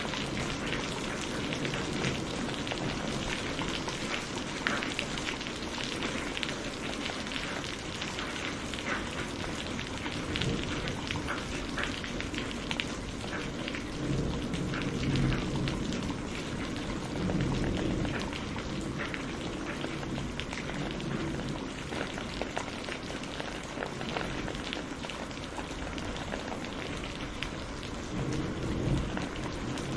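Steady rain falling on a surface, with many individual drops spattering distinctly. Low rumbles of distant thunder swell up briefly a few times, around the middle and near the end.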